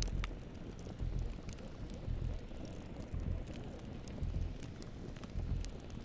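Campfire crackling, with sharp pops scattered through a steady hiss. Underneath, a low rumble swells about once a second.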